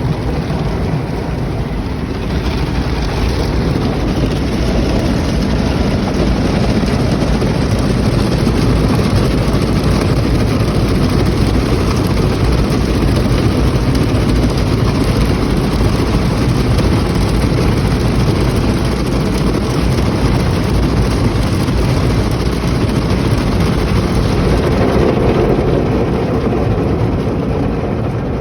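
Automatic car wash machinery running: a loud, steady roar of spraying water and motors, with a slight swell near the end.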